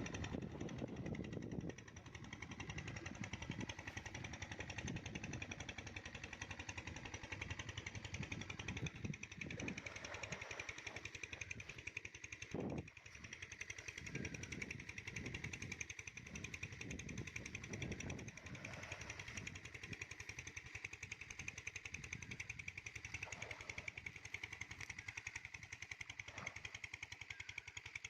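A small engine running steadily with a fast, even rattle. Scattered low thumps sound over it, with a sharper knock about 13 seconds in.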